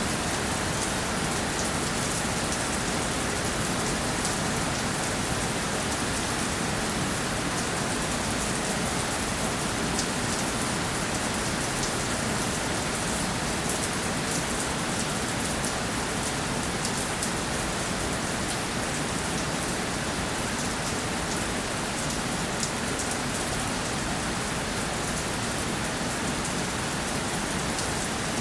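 Steady rainfall, with dense drops pattering on a surface and many fine, close drop ticks.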